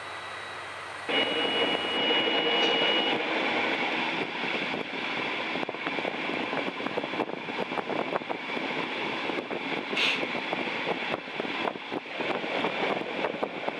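A DB class 218 diesel-hydraulic locomotive humming at the platform for about a second. Then, heard from an open carriage window of the train it hauls, the train is running: a dense rumble and rush of engine, wheels and wind, with many sharp clicks from the wheels on the track. A high squeal is held for about two seconds just after the change.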